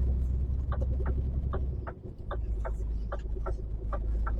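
Inside an HGV cab: the truck's diesel engine rumbling low and steady, with the turn indicator ticking about three times a second. The engine rumble dips briefly about two seconds in.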